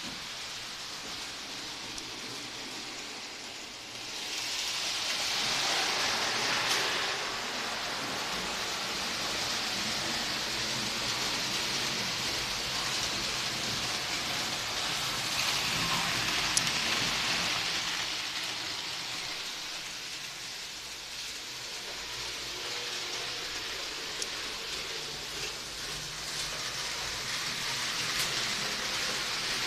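Miniature train running along its track: a steady rushing rattle that swells as the train comes close, about four seconds in and again around fifteen seconds in.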